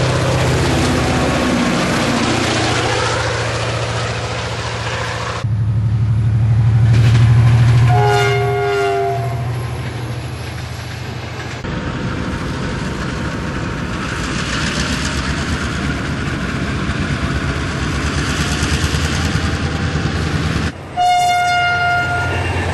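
Diesel locomotives on narrow-gauge track running and passing, engines throbbing, in several separate sections that change abruptly. A train horn sounds a brief chord about 8 seconds in, and a shorter blast near the end.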